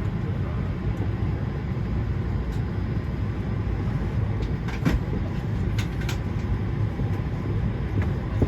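Steady low rumble of the Airbus A220-100's cabin noise, heard from a window seat, with a few short clicks around the middle.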